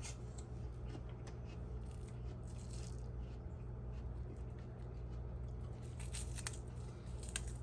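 Faint crisp clicks and crunches of a freshly spiralized apple being handled and pulled off the spiralizer, a few scattered ones with a cluster near the end, over a steady low hum.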